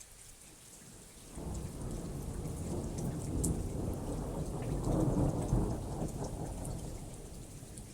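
Thunder rumbling over steady rain: a low roll breaks in suddenly about a second and a half in, swells to its loudest around five seconds, then fades, while raindrops patter throughout.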